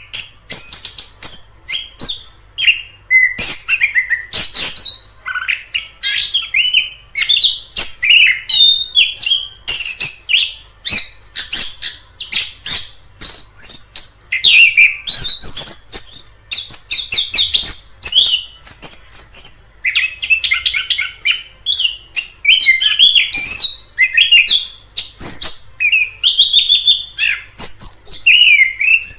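Orange-headed thrush singing a continuous, varied song of quick rising and falling phrases, with sharp clicking notes among them.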